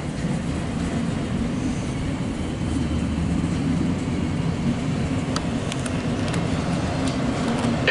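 Steady rumble of an empty autorack freight train rolling past, heard muffled from inside a car, with a few faint clicks about two-thirds through.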